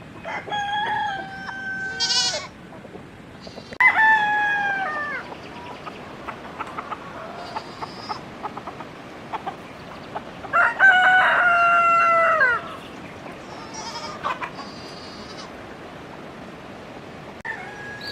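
Roosters crowing: three long crows, each held level and dropping in pitch at the end, with faint clucking between them.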